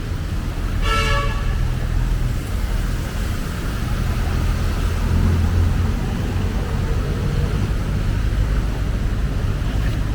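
Road traffic running steadily with a low engine rumble. A vehicle horn gives one short toot about a second in.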